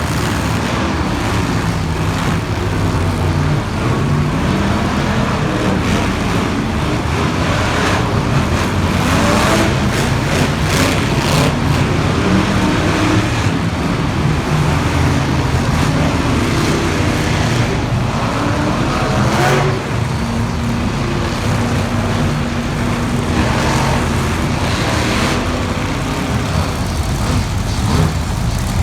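Monster truck engines running loud and continuous, the pitch rising and falling as they rev.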